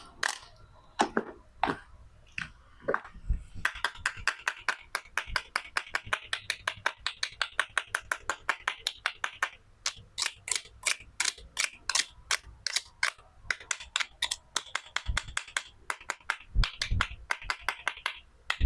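Toy fruit and vegetable cutting set: a fast run of sharp clicks and taps, several a second, as the toy pieces are handled and cut.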